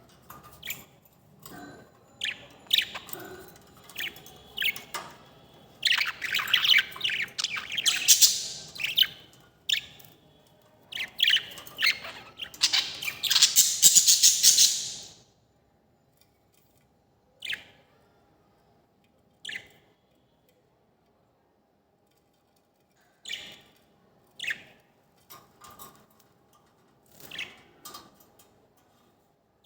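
Bird calls: dense runs of chirping about six and twelve seconds in, then single short chirps a few seconds apart.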